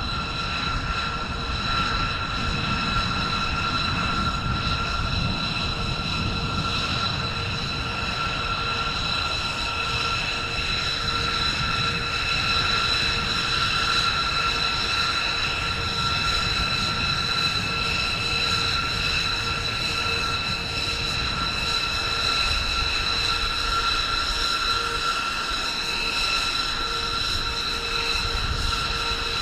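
Jet aircraft engine running steadily: a high, even whine over a low rumble.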